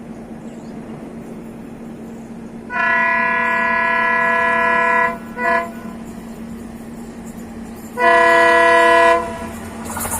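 Train locomotive horn sounding a long blast, a short toot and then another blast of about a second, each a chord of several steady tones, over the steady running noise of the moving train.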